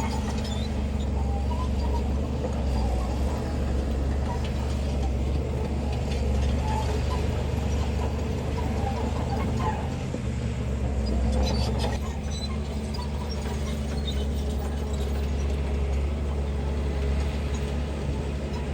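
Heavy earthmoving machine's diesel engine running steadily, with scattered metallic clanks and rattles that come thickest about ten seconds in.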